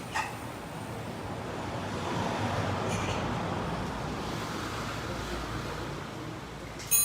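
A vehicle's road noise swelling and fading as it passes, with a few faint clicks and a sharp metallic clink near the end.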